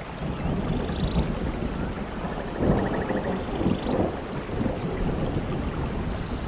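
Rain falling steadily with a roll of thunder rumbling underneath, swelling loudest about three seconds in.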